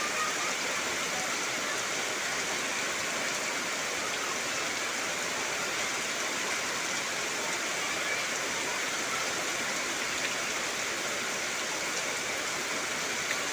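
Heavy rain falling steadily, a dense, even hiss without pauses.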